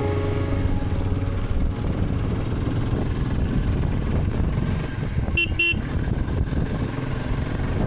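Royal Enfield Himalayan 450's single-cylinder engine running under way, mixed with wind and road noise. About five and a half seconds in, a vehicle horn gives two short toots.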